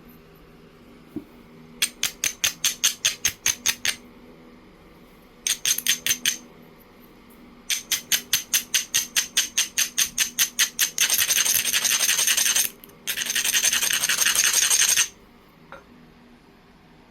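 Jasper edge being rubbed against an abrading stone in quick back-and-forth strokes, about five a second, in several short bursts, then two longer spells of faster, continuous scraping near the end.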